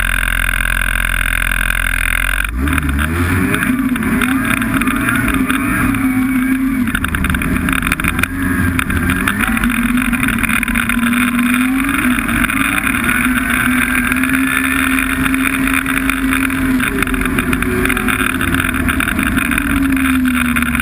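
Snowmobile engine running under way, its pitch wavering and rising and falling with the throttle. It comes in suddenly about two and a half seconds in, after a steady hum.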